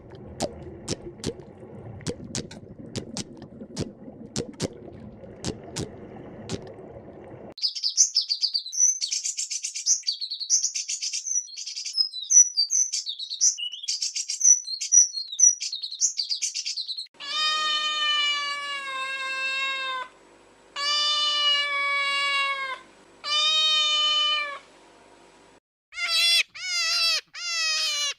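A string of animal sounds. First come sharp clicks over a low rumble for about seven seconds, then high, busy bird chirping. After that a cat meows: three long drawn-out meows, then a quick run of short mews near the end.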